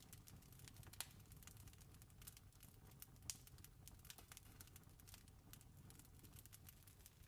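Campfire crackling faintly: irregular small pops and snaps of burning wood, with two louder snaps about one second and three seconds in, over a low steady rumble.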